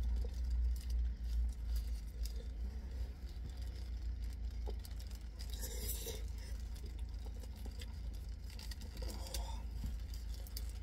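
Close chewing and mouth noises of someone eating a wrap, small irregular clicks, with a brief rustle about six seconds in and another near nine seconds, over a steady low rumble.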